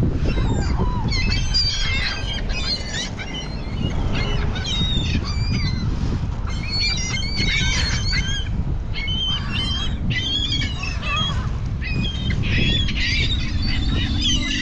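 A flock of gulls calling over one another in quick, overlapping squawks while they squabble over thrown bread, over a steady low rumble.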